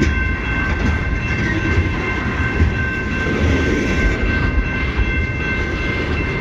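CN freight train's cars rolling past with a steady low rumble and some clickety-clack of wheels over rail joints, with steady high-pitched ringing tones held over it.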